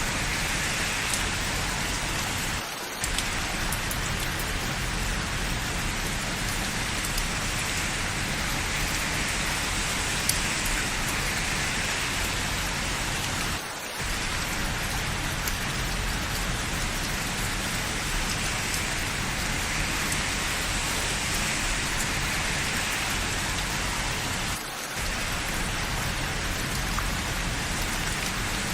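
Steady rain falling, an even hiss with three brief dips in level about eleven seconds apart.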